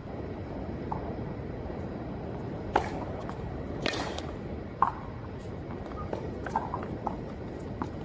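Tennis rally on court: a tennis ball is struck and bounces, giving three sharp knocks about a second apart, followed by smaller clicks and scuffs of players' feet over a steady background hiss.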